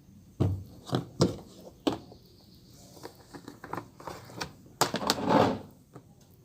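Handling noise from opening the plastic spin-dryer lid of a Sharp twin-tub washing machine: a few sharp clicks and knocks in the first two seconds, then a louder half-second rush of handling noise about five seconds in.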